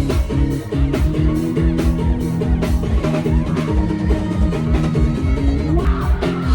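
Live band music with a steady drum beat and bass.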